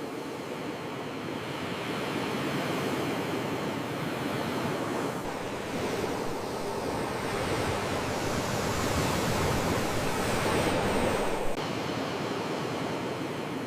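Sea waves washing ashore: a steady rushing surf that swells to its loudest about ten seconds in, then drops off suddenly near the end.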